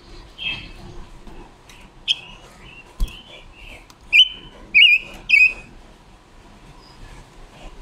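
Silver-eared mesia calling: a few short notes in the first two seconds, then three loud, clear calls between about four and five and a half seconds in. A single sharp click comes about three seconds in.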